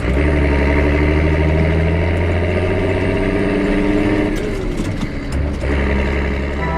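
Tractor engine running steadily under load. Its note drops about four seconds in and recovers near six seconds.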